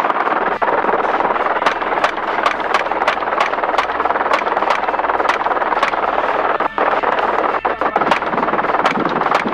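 Helicopter running, heard from inside the cabin as a loud steady noise, with a regular run of sharp cracks about two to three times a second.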